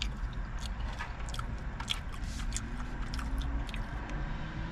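Someone chewing food close to the microphone: a scatter of small wet mouth clicks and bites over a low steady hum.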